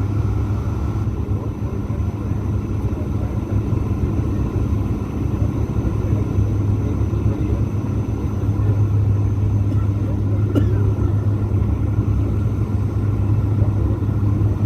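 Airliner cabin noise during the landing approach: a steady low rumble with a constant hum, and one brief click about ten seconds in.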